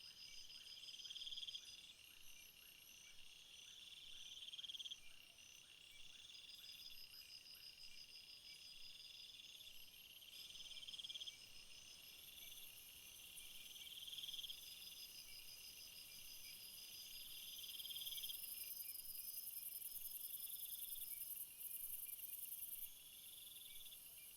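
Faint chorus of crickets and other singing insects: pulsed trills in bouts of about a second, repeating every two seconds or so, over a steady higher chirring. A very high buzz swells about halfway through and drops away near the end.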